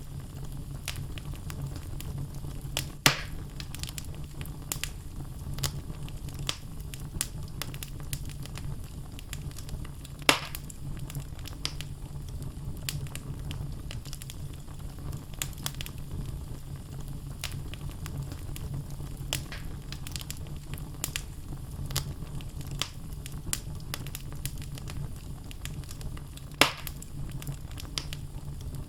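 Wood logs burning in a fireplace, crackling with many small ticks and three sharper, louder pops, over a steady low rumble of the flames.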